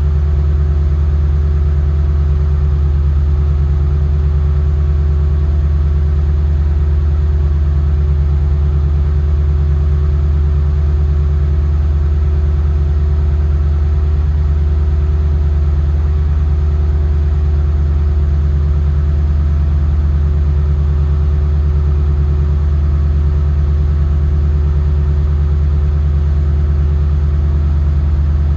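Lexus LS460's 4.6-litre V8 idling steadily shortly after a cold start, breathing through a Fujitsubo SuperTi titanium aftermarket exhaust with a deep, even low note.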